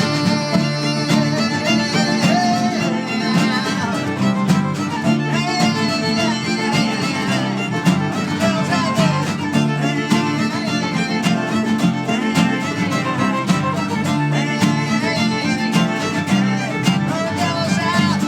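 A live band playing a stretch of a song with no singing. A steady, repeating bass line runs under wavering melodic lines.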